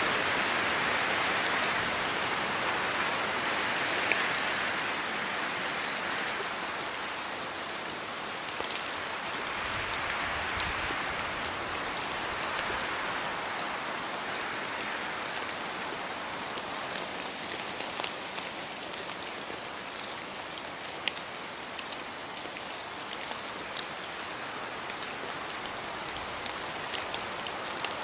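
Steady rain falling, a dense hiss with scattered sharper drop ticks, easing slightly after the first few seconds.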